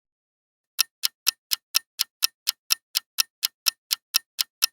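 Clock-ticking sound effect counting down the answer time for a quiz riddle: even, sharp ticks about four a second, starting about a second in.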